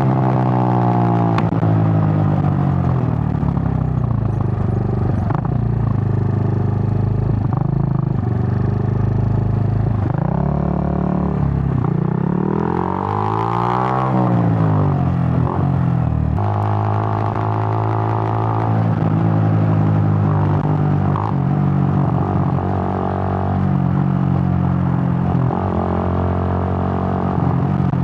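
Suzuki GN125's air-cooled single-cylinder four-stroke engine running under way, its pitch gliding up and down with throttle and gear changes: revving up and dropping away about halfway through, then running steadier in the second half.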